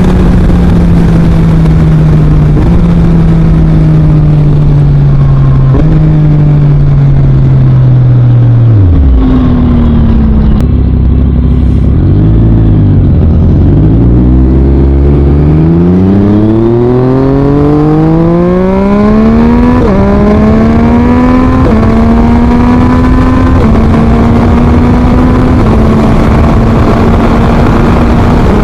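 2023 Yamaha MT-09's three-cylinder engine through an Akrapovic full exhaust while riding. The engine note falls as the bike slows, jumping up with each downshift, sinks to a low burble about nine seconds in, then rises steadily as it pulls away and settles into a steady cruise with a few shifts.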